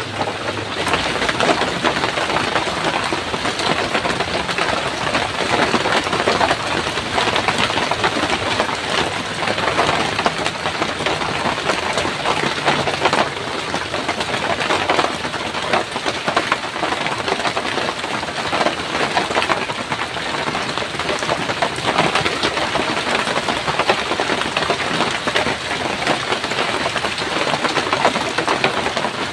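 Heavy rain falling, a steady, dense rushing hiss.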